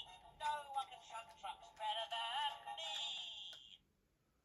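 A battery-powered talking toy train engine playing its recorded voice and music through its small built-in speaker, cutting off suddenly about a second before the end.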